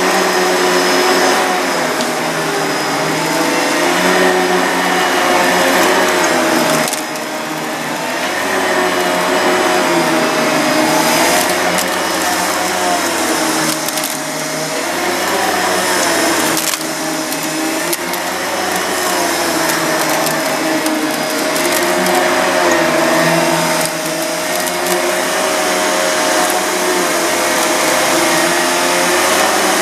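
Panasonic MC-CG885 vacuum cleaner running steadily while picking up dog hair, with a steady hum and a pitch that wavers and dips briefly a few times.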